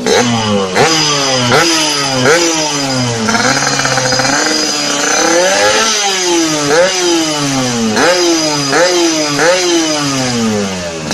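Yamaha RX-King's two-stroke single revved through an aftermarket exhaust: several quick throttle blips, a slower rev that rises and falls in the middle, then another run of short blips, settling back toward idle near the end.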